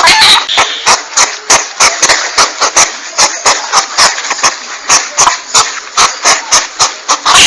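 Porcupine (landak) calls from a looped hunting-lure recording: sharp clicks at a steady pace of about three a second over a rasping hiss.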